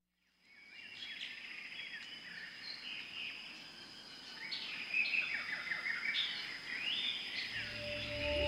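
A chorus of many birds chirping and whistling, fading in at the start, over a thin steady high buzz typical of insects. Near the end, soft music with a low drone and held tones comes in underneath.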